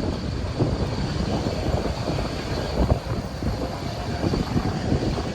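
Aircraft engine rumble, a steady low roar that wavers in level without a break.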